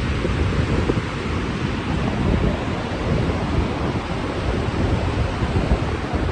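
Strong wind blowing on the microphone: a steady, loud rushing noise with low rumbling buffets, and the sea's waves under it.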